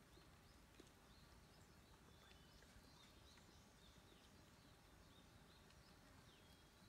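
Near silence: faint forest ambience with small birds giving short, high chirps, one or two a second.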